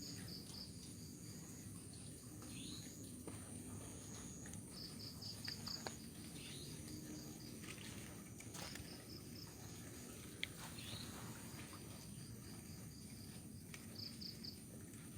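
Night insects, crickets, chirping faintly: short bursts of rapid high chirps every few seconds over a steady high buzz, with a low background rumble.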